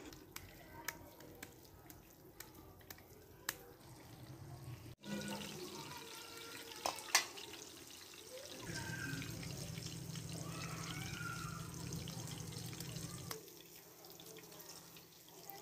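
Soft slaps and clicks of wet hands patting minced-meat mixture into kebab patties, then hot oil crackling and sizzling as chapli kebabs fry in a flat pan. A low steady rumble runs for several seconds near the middle.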